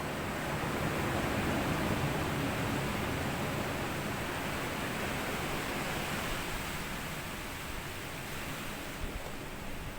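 Small sea waves washing up onto a sandy beach: a broad hiss of surf that swells in the first couple of seconds and then slowly ebbs away.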